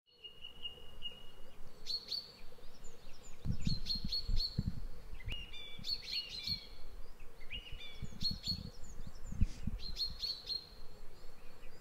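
Birds chirping and calling in a steady series of short chirps, high whistled notes and falling calls, with some low rumbles in the middle.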